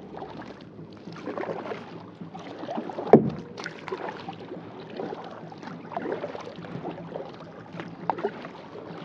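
Kayak paddle strokes pulling through the water, splashing and dripping in an uneven rhythm, with one sharp knock about three seconds in.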